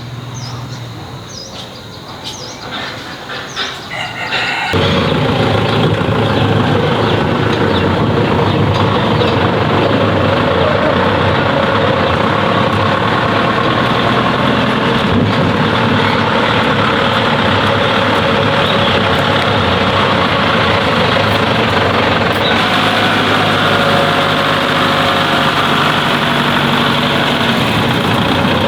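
A heavy engine running steadily at a constant pitch. It comes in abruptly about five seconds in, after a few seconds of quieter, mixed sounds.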